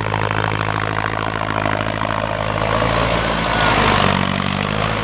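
A farm tractor's diesel engine running steadily, its note shifting briefly about three and a half seconds in.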